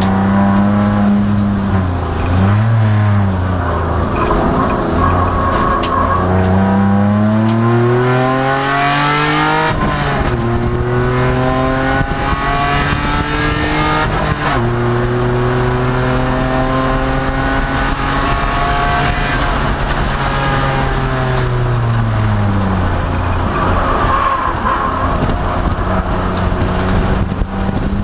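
2002 Nissan Maxima race car's V6 engine under hard acceleration, heard from inside the car. It climbs in revs through two upshifts, holds steady, then drops away as the driver lifts off and slows, and starts pulling again near the end.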